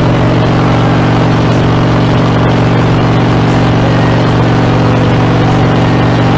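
Harley-Davidson Dyna's V-twin engine running steadily through Screamin' Eagle mufflers, loud and even in pitch with no revving.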